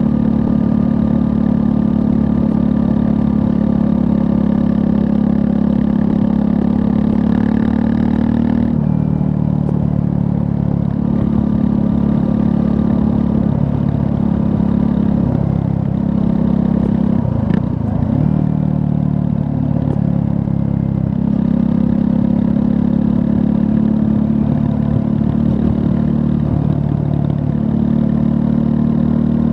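Triumph Scrambler 400 X's 398 cc liquid-cooled single-cylinder engine running under way. The engine note drops about nine seconds in, rises and falls with the throttle through the middle, and holds steady again near the end.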